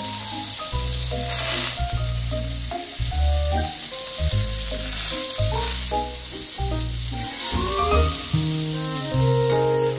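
Salmon fillet sizzling as it fries in foaming butter in a hot pan, a steady hiss. Background music with a bouncy bass line plays over it.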